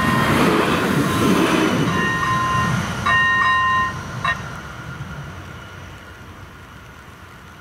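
A passenger train passing over a level crossing, its rumble fading away, while the crossing's ZV-01 electronic warning bell sounds a repeated electronic ding that cuts off about four seconds in.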